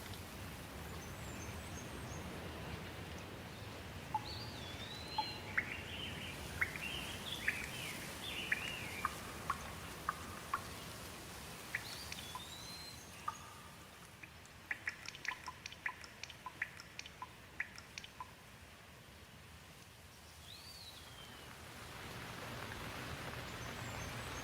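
Steady rain that thins out midway and returns near the end, with birds calling in quick sweeping chirps and a brief run of sharp drips.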